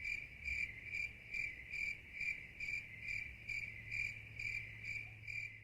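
A cricket chirping steadily, about two or three chirps a second, over a steady low hum.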